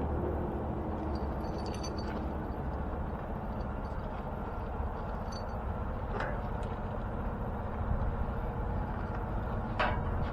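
Steady low drone of a semi truck's engine running, with a few faint clicks over it.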